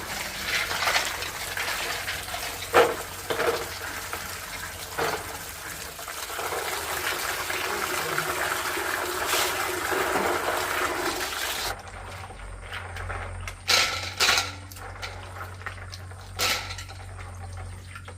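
Water running or splashing, with a few knocks, cutting off suddenly about twelve seconds in; after that, a few separate knocks against a quiet background.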